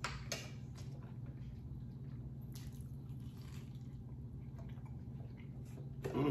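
Two people eating fried pork chops and potatoes: faint chewing and biting with a few soft clicks of forks on plates, over a steady low hum. A short bit of voice comes right at the end.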